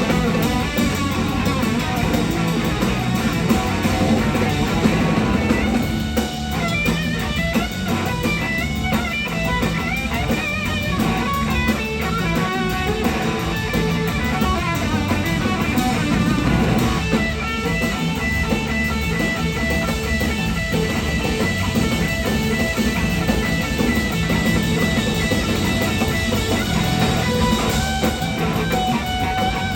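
Electric slide guitar, a Gibson SG, soloing live over a full rock band with bass and drums; the lead line glides and wavers between notes, climbing into higher runs from about six seconds in.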